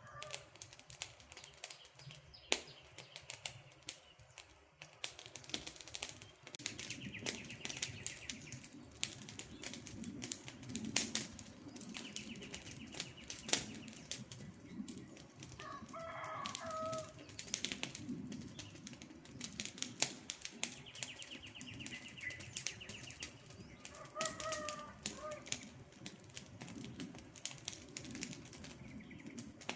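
Wood campfire crackling and popping with many sharp snaps over a soft low rustle of burning. A bird gives a short call twice, about 16 s and 24 s in, and a high trill comes and goes in the background.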